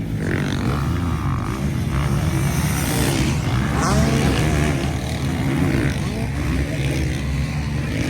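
Motocross motorcycle engines running and revving, their pitch rising and falling.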